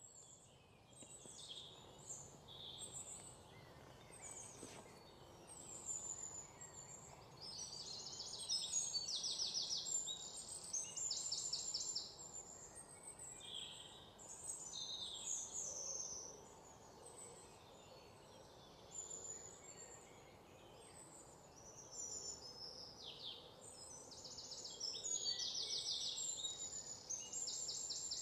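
Wild birds calling and chirping, several of them rapid trills, over a faint steady outdoor background hiss.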